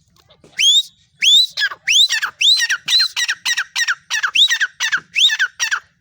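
Female francolin (teetar) calling: a loud run of about a dozen shrill upswept notes, the first few spaced out and the rest coming faster, about two to three a second.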